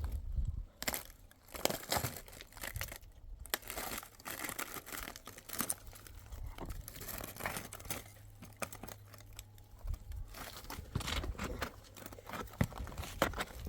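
Irregular rustling, crinkling and crackling, with a steady low hum underneath that stops near the end.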